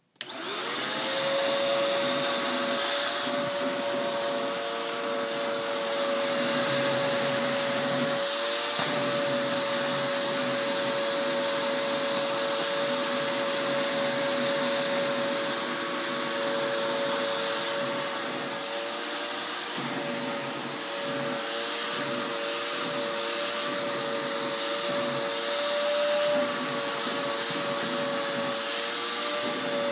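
Vacuum cleaner switched on, its motor spinning up to a steady high whine within the first second, then running steadily through its hose as it is used to vacuum a cat. The whine wavers slightly in pitch a few times.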